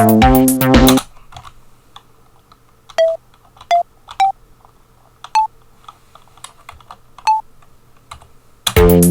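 Computer keyboard keys clicking as notes are typed into a tracker, with five short pitched sample notes sounding as they are entered, mostly stepping up in pitch. Tracker music with a drum-machine beat stops about a second in and starts playing again near the end.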